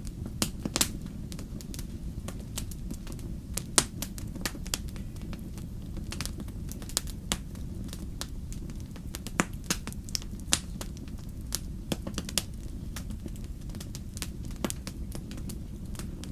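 Wood campfire crackling: irregular sharp pops and snaps, several a second, over a steady low rumble of the burning fire, with one louder pop a little under four seconds in.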